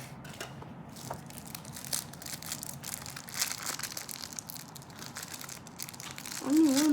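Crinkling and rustling of plastic wrapping being handled, coming and going irregularly.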